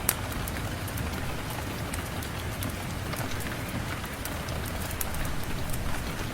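Steady rain falling, mixed with scattered sharp crackles and pops of a wood fire in a fireplace, one louder crack just after the start.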